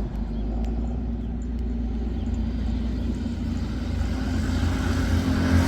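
Motor vehicle engine running close by: a low, steady rumble that grows louder near the end.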